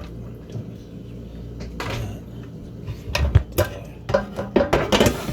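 Kitchen handling noises: a quick run of knocks and clinks of dishes and a cupboard or appliance door in the second half, over a steady low hum.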